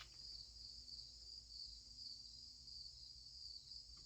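Faint, steady high-pitched chirring of crickets, one unbroken drone with no pauses.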